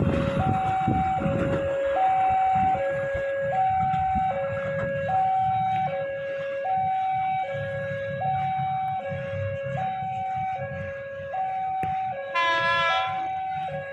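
Two-tone hi-lo siren, switching evenly between a high and a low note about every three-quarters of a second, over a low background rumble. About twelve and a half seconds in, a short higher tone sounds once over it.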